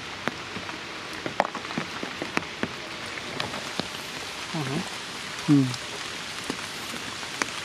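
Steady rain falling, with many sharp raindrop ticks scattered through it. A short voice sounds twice about halfway through.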